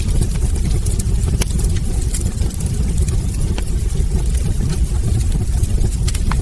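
Wood fire burning in a fireplace: a steady low rumble of the flames with frequent sharp crackles and pops from the burning logs, one louder pop near the end.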